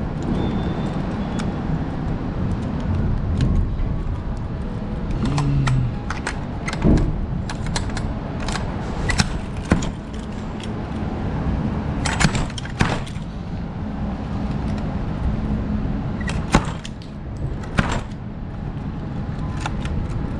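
Steady low hum of an idling truck engine, with a string of sharp clicks, knocks and light rattles from things being handled.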